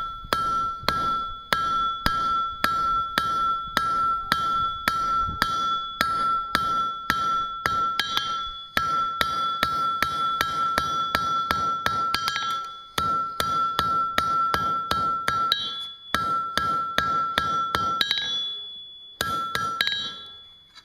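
Hand hammer striking hot steel on an anvil, about two blows a second, each blow leaving a steady high ring from the anvil, as the end of a scroll bar is drawn out to a point. The hammering stops briefly a few times, with a longer pause near the end.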